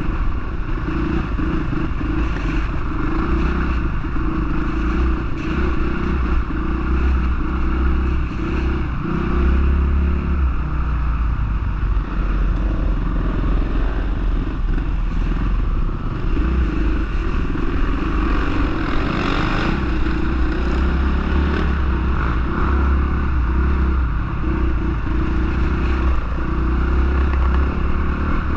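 Honda CRF450R motocross bike's single-cylinder four-stroke engine running continuously and loudly as the bike is ridden.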